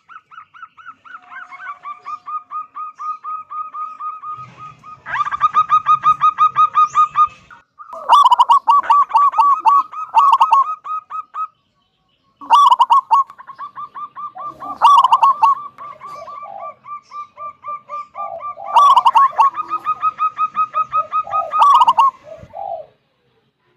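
Zebra dove (perkutut) singing: long phrases of quick, evenly repeated cooing notes, some phrases much louder, broken by short pauses.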